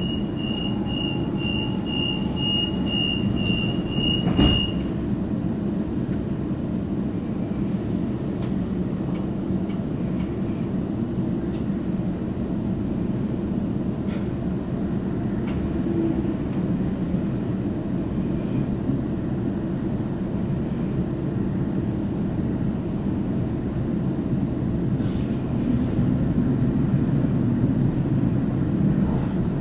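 Waratah Series 2 electric train's door-closing warning: rapid high beeping for about four and a half seconds, ending in a sharp thud as the doors shut. Then the steady rumble of the train running, heard inside the carriage as it pulls away.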